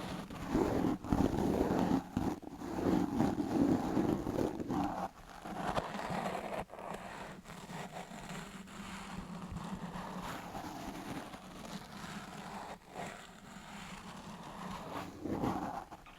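Paint brush bristles brushed over the microphone, a rustling swish. It is louder for the first five seconds and again about 15 seconds in, and softer between, with a few light clicks.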